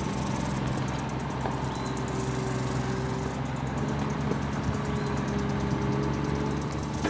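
Small motor of a homemade scrap-metal mini tractor running steadily at a constant speed.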